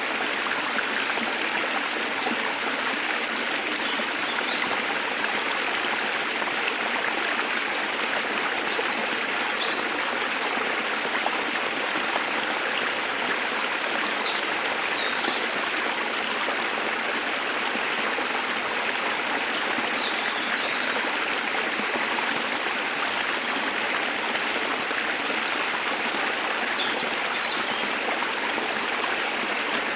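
Waterfall water rushing with a steady, even noise. A few short bird chirps come through it now and then.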